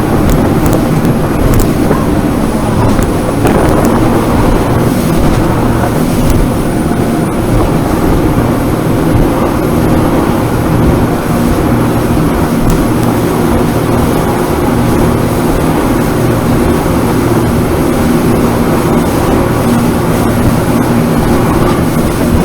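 Jet boat's engine running steadily at speed, a constant drone under a dense rush of noise.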